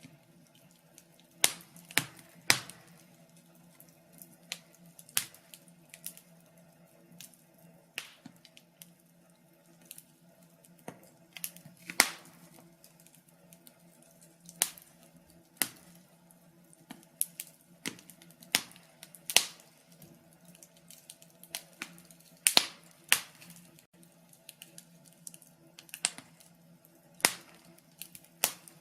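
Wood fire crackling in a fireplace: irregular sharp pops and snaps, sometimes in quick clusters, over a faint steady low background.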